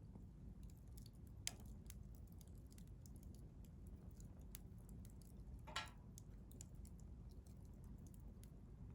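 Wood campfire crackling: scattered small ticks and snaps over a low steady rumble of the flames, with a sharp pop about a second and a half in and a longer crackling pop near six seconds.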